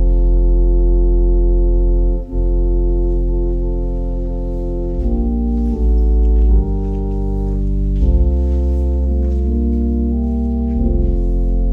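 Organ playing slow sustained chords over a deep held bass, the chords changing every second or two.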